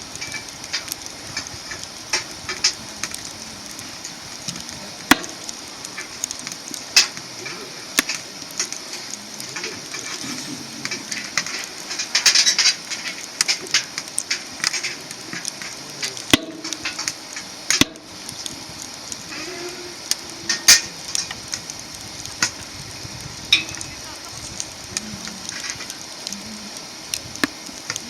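Wood fire burning in a small camp fire pit, crackling with irregular sharp pops over a steady hiss, and a quick run of crackles about twelve seconds in.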